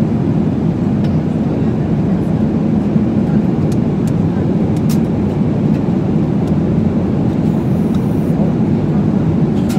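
Steady low drone of an airliner cabin in flight: engine and airflow noise heard from inside the cabin, with a few faint clicks.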